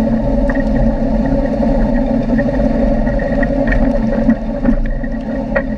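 UAZ 450D engine running steadily under way over rough ground, with scattered knocks and rattles from the body.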